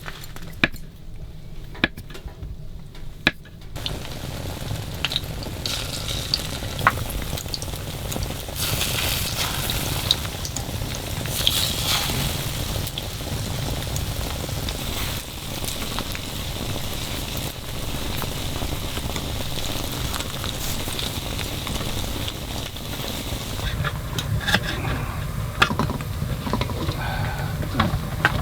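Steady sizzling of food frying in a pan on a hot stove. It starts a few seconds in, with scattered clicks and clinks of a utensil or lid.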